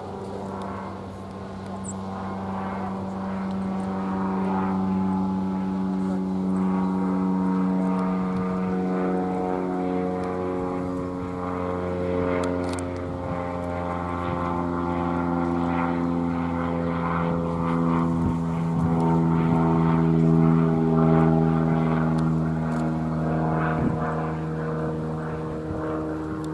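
Steady engine drone that swells over the first several seconds and then holds, its pitch drifting slowly.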